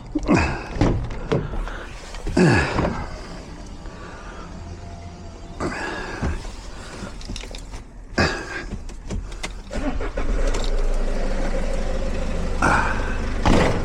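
A car engine starts about ten seconds in and settles into a steady idle. Before it, a few short clicks, knocks and rattles are heard.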